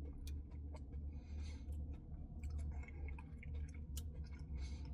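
Faint eating sounds of someone working through a Dairy Queen cookie dough Blizzard: soft chewing and small scattered clicks over a low steady hum.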